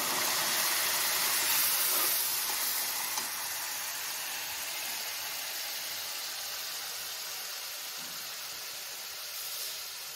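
Ground tomato paste sizzling in hot sesame oil in a steel kadai, just after it has been poured in. The sizzle is louder for the first two seconds, then settles to a steady frying hiss.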